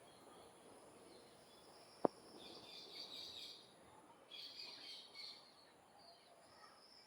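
A bird chirping faintly in two short bursts of high twittering, after a single sharp click about two seconds in.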